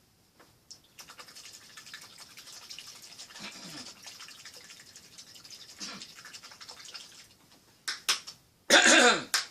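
A paintbrush scrubbing paint with quick, soft bristle strokes, then a short loud cough near the end.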